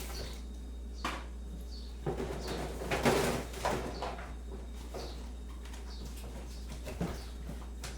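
Kitchen handling sounds: scattered knocks and clinks of things being set down or moved, the loudest cluster about three seconds in, over a steady low hum, with birds calling faintly.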